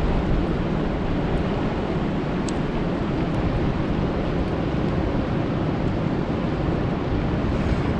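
Rain falling steadily on a lake: an even wash of noise, strongest in the low range.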